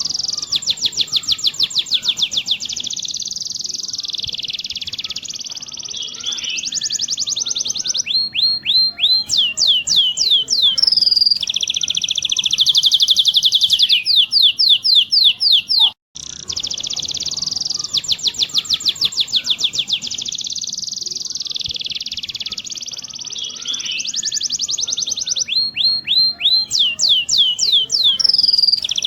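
Domestic canary singing a long song of rapid rolling trills and quick series of falling notes. The same song passage repeats after about sixteen seconds, following a brief break, as a looped tutor recording.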